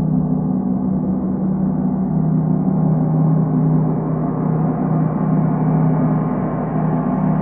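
Gong in a sound bath, ringing on in a steady, sustained, shimmering hum of low tones.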